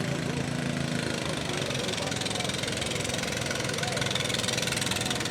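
A tractor engine running, its steady hum most prominent in the first second and then fading under a general din of voices.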